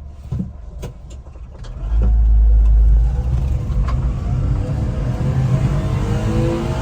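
Honda Acty kei truck's small three-cylinder engine: a few clicks, then about two seconds in the engine comes up loudly and settles into running, its pitch rising a little near the end.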